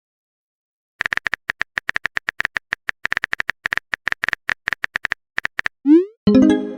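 Phone-keyboard typing sound effect: rapid, even clicks for about four and a half seconds, followed by a short rising swoop and a brief tonal chat chime near the end, the sounds of a message being typed and sent.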